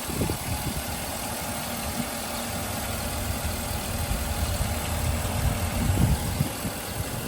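Engine of a Chevy bale bed truck running with a steady low rumble.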